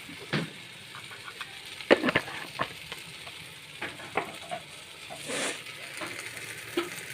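Chicken frying in a biryani masala, sizzling steadily, while a utensil stirs it and knocks against the pot every second or so, loudest about two seconds in, with a short scraping swish a little past halfway.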